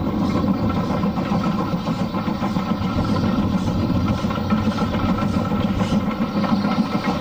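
An engine running steadily, a constant hum at an unchanging speed.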